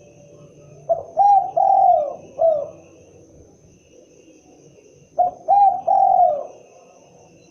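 Spotted dove (tekukur) cooing in two phrases: a run of four falling coos about a second in, then three more just after five seconds.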